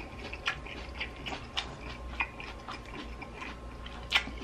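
A person chewing a mouthful of seared tomahawk steak with its crisp crust: irregular short clicks and smacks from the mouth, with a louder one near the end.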